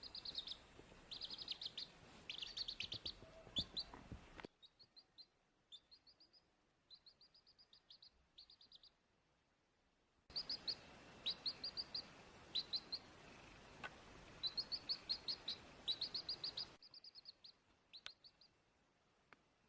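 High, short chirps in quick runs of three to six, repeating throughout, like a small bird calling. A faint background hiss switches off about four seconds in, returns about ten seconds in and drops out again near the end.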